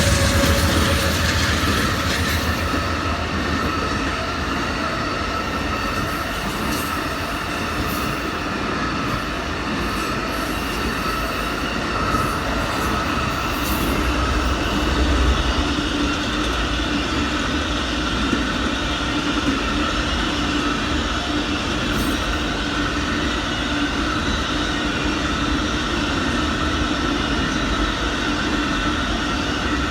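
Amtrak Auto Train's cars rolling past on the rails: a continuous steady rumble of wheels on track, with faint steady high tones from the wheels riding over it.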